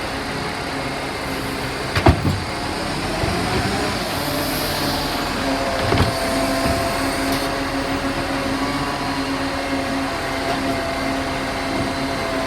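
Garbage truck's engine and hydraulics running steadily with a held whine, and a sharp knock about two seconds in and another about six seconds in.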